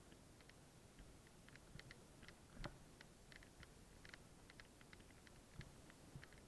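Near silence with faint, irregular clicking and ticking, several clicks a second, one slightly louder about two and a half seconds in.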